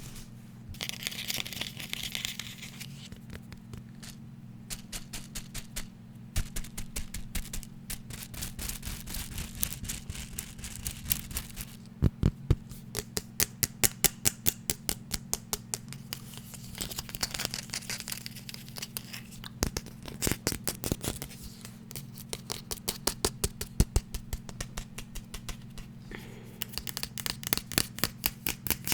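Fast tapping on a hard object: rapid runs of sharp taps, several a second, with brief pauses between runs. A short scratching or brushing sound comes about a second in. A steady low hum runs underneath.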